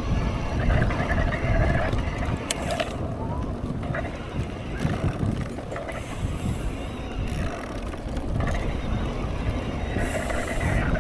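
Mountain bike riding over trail: freehub ratchet clicking and the bike rattling, over a steady low rumble.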